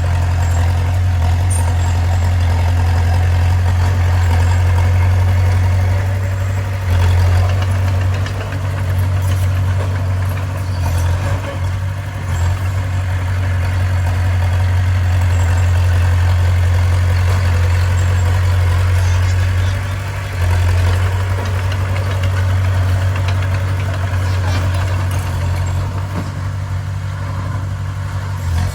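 Heavy diesel engine of earthmoving machinery running steadily with a deep, continuous drone, dipping and swelling briefly a few times as the load changes.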